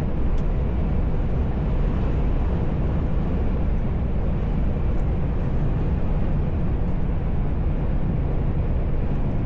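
Steady low rumble of a truck's engine and tyre noise, heard from inside the cab while driving, with a couple of faint ticks.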